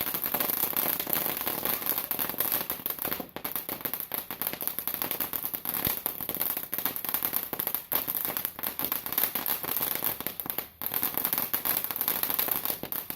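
A consumer firework going off with rapid, continuous crackling and popping for about thirteen seconds. The crackling dips briefly a few times, then stops suddenly at the end.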